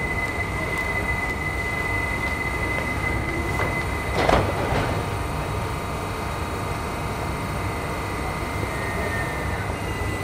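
London Overground Class 378 electric train standing at an underground platform with a steady high-pitched whine over a low rumble. About four seconds in its doors close with a loud clunk.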